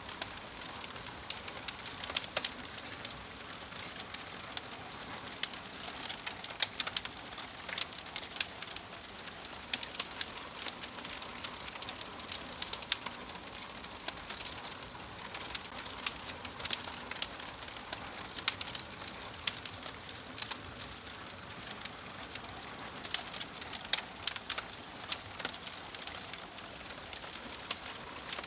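Wood fire crackling in a fireplace: a steady soft hiss with irregular sharp pops and snaps, several a second.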